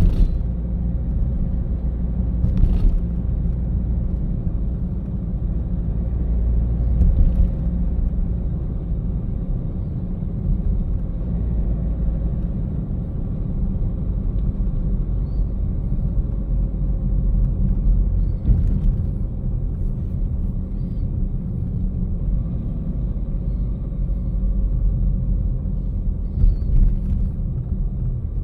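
Car driving at low speed: steady low rumble of tyres and engine, with a faint steady hum and a few faint knocks.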